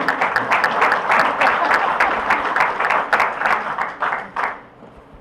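Audience applauding, a dense run of hand claps that stops about four and a half seconds in.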